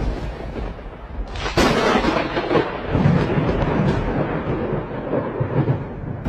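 Thunder: a sharp crack about one and a half seconds in, followed by a long rolling rumble.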